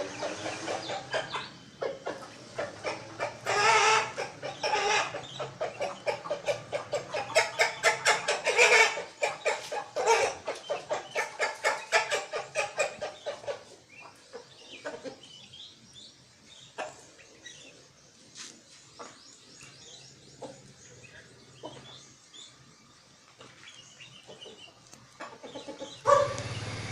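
Rooster calling hens with runs of rapid, repeated clucks, loud through the first half, then fading to sparse, faint clucks in the second half.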